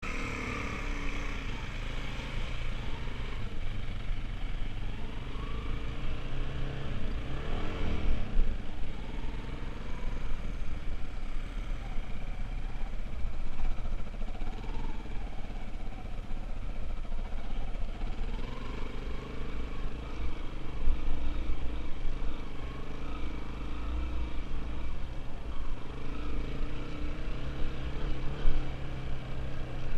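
Dirt bike engine running, its pitch rising and falling as the revs change.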